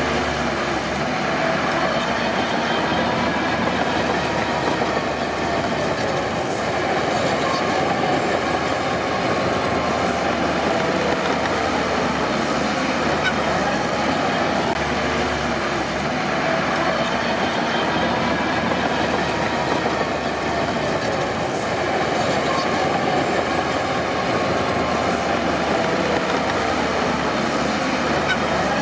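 Crawler bulldozer working, its diesel engine running steadily under the clanking and wavering squeal of its steel tracks.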